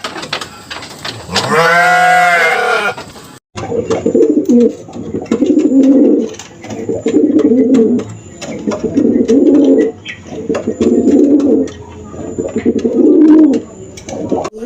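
A single bleat, then, after a sudden cut, a pigeon cooing in about six low, rolling phrases roughly a second and a half apart.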